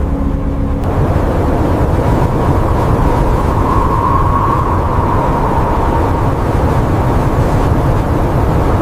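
Steady roar of blizzard wind, with a faint high whistle that swells a little about four seconds in.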